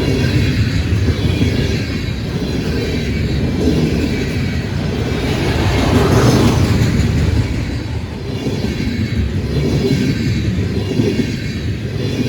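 A fast freight train's cars rolling past at speed, with a steady, loud rumble of wheels on rail. The noise swells briefly about halfway through.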